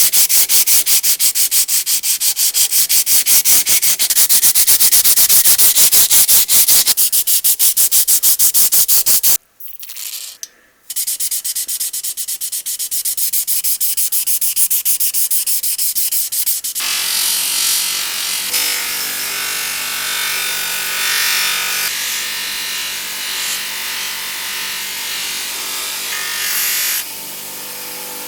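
Sandpaper rubbed rapidly back and forth over metal plane parts, several strokes a second. The strokes stop briefly about a third of the way in, start again, then give way a little past halfway to a steadier, continuous rubbing with a faint hum.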